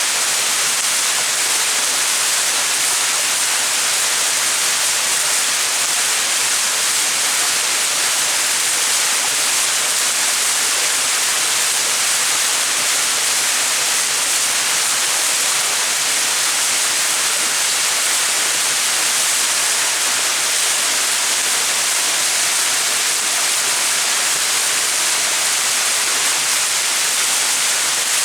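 Small mountain waterfall splashing, a steady, even rush of falling water.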